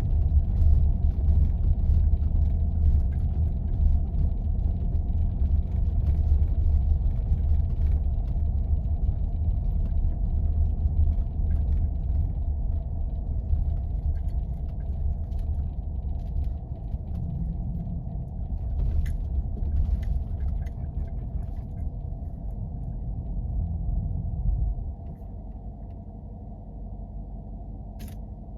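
Jeep driving over snowy back roads: a steady low rumble of engine and tyres, which falls off sharply about 25 seconds in. A few faint ticks come through near the end.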